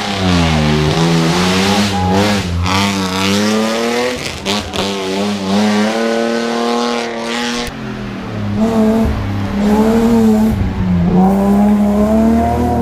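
Rally car engine heard from on board, flat out on a stage. The revs climb and drop again and again as the driver accelerates, shifts gear and lifts for corners, with short breaks in the note about a third and about two-thirds of the way through.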